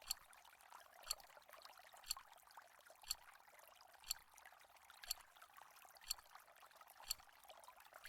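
Clock-like countdown ticks, one every second, over a faint steady rushing noise.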